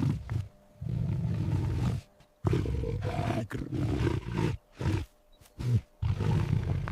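Big cat roaring: a run of deep roars broken by short pauses, the longest lasting about two seconds.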